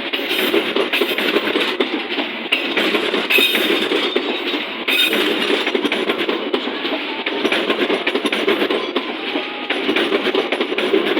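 Passenger train running past on the rails: a steady rumble of wheels on track with a dense clatter of clicks.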